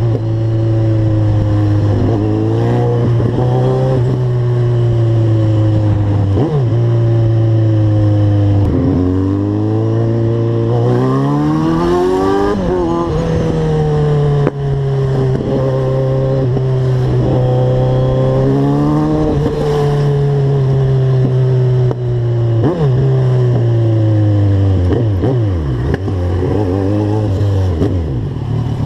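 Motorcycle engine running under way, heard from the bike itself. Its pitch holds steady for stretches, then rises and falls with the throttle, with several brief dips as gears are changed.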